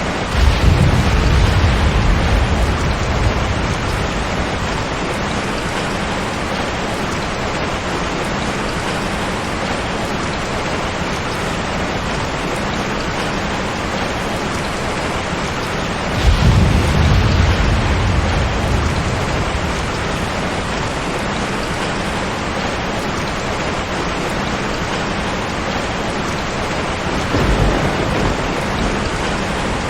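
Steady heavy rain with rolling thunder. Three low rumbles swell and fade over a few seconds each: one right at the start, one about halfway through, and a weaker one near the end.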